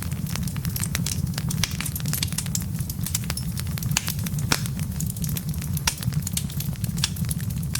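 Wood fire burning in a fireplace: logs crackling and popping in irregular snaps over a steady low rumble of flame.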